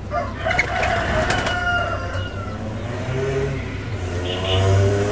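Birds calling: a long call falling slightly in pitch over the first two and a half seconds, then a lower call starting near the end, over a steady low hum.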